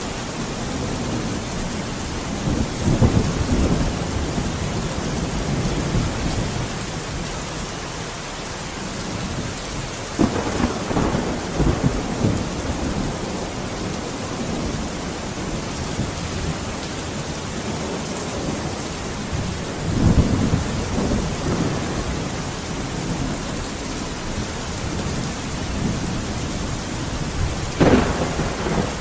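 Steady rain with rolling thunder: low rumbles swell about three seconds in, again around ten to twelve seconds and around twenty seconds, and a sharper, closer crack comes near the end.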